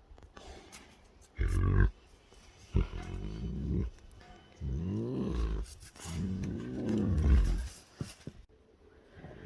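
Tigers growling and snarling in four bouts of one to two seconds each, as during a rough scuffle between tigresses.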